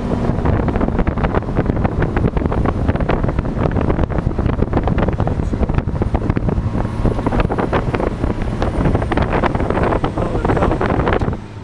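Heavy wind buffeting and crackling on the microphone, with a truck's engine running underneath; it drops away abruptly near the end.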